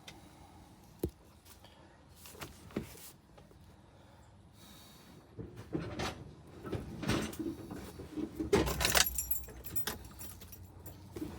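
Keys jangling, with scattered clicks and knocks: a few single clicks at first, then a busier run of rattling in the second half, loudest a little past the middle.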